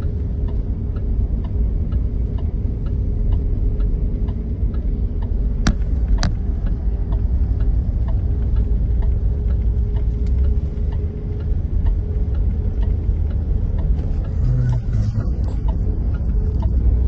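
Car interior noise while driving: a steady low rumble of the engine and tyres on the road, with a faint, regular ticking and two sharp clicks about six seconds in.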